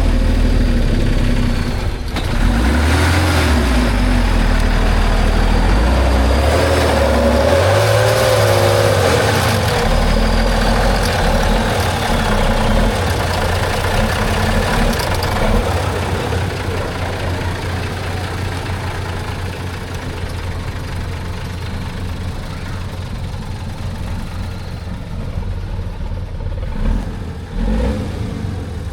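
Heavy off-road trial truck engine revving hard, its pitch rising and falling, with a faint high whine above it; after about halfway it drops to a quieter, steadier running.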